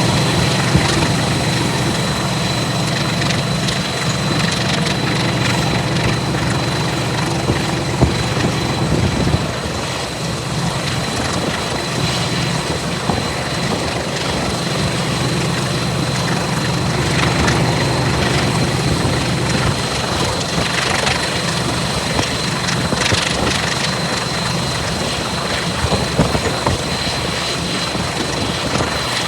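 Heritage diesel locomotive hauling a train, its engine giving a steady low drone over wheel and rail noise, with a few short knocks along the way.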